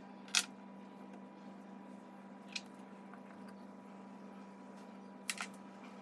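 A few sharp, light clicks over a steady low hum: one about a third of a second in, one near the middle, and a close pair near the end.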